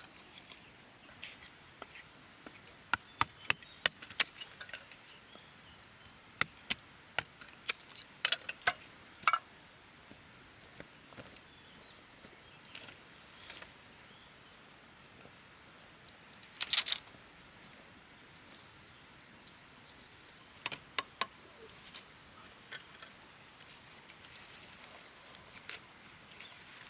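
A blade chopping in sharp, irregular strokes, a few at a time with pauses between, over a faint steady insect buzz.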